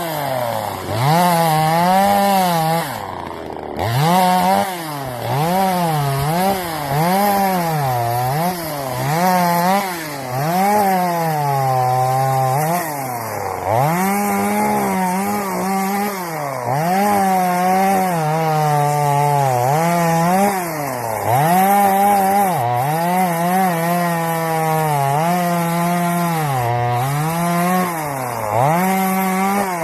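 Chainsaw cutting through wood under load. Its engine note sags and recovers about once a second as the chain bites, with one deeper drop about three seconds in.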